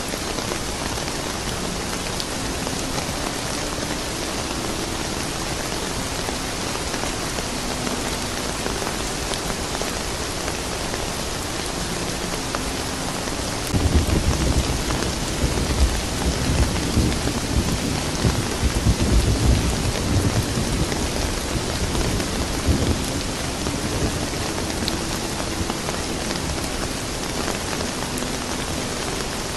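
Steady rain falling. About halfway through, a low rumble of thunder starts suddenly and rolls on for about nine seconds before easing back into the rain.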